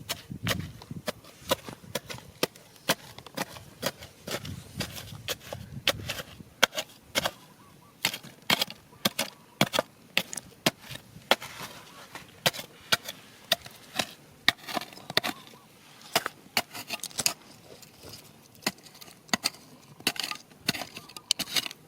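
Rapid, uneven series of sharp knocks and clicks, about two or three a second, of a hand tool striking stones while digging through rocky ground.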